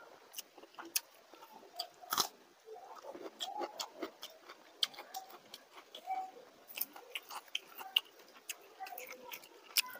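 Close-up chewing, with many irregular wet clicks and lip smacks, while fingers mix soaked rice in water in a steel bowl.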